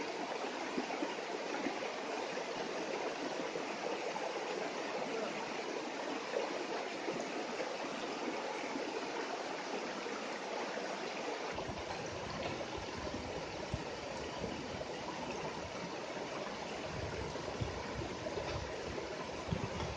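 Stream water flowing with a steady rush. A little over halfway through, a low rumble joins underneath.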